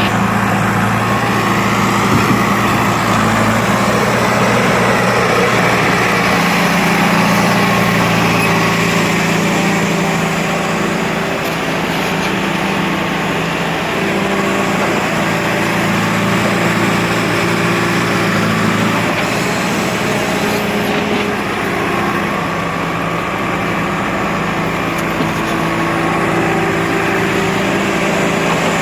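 Heavy tractor engine running hard and continuously, its pitch shifting up and down several times as the revs change.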